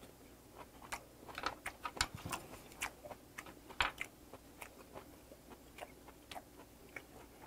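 Close-miked chewing of a mouthful of soy-marinated sea hare and rice: irregular wet clicks and smacks, starting about half a second in and busiest over the next few seconds.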